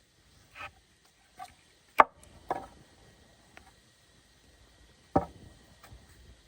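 A blade chopping into a roasted bamboo tube of sticky rice to open it. Two sharp strikes land about three seconds apart, with a few softer knocks around them.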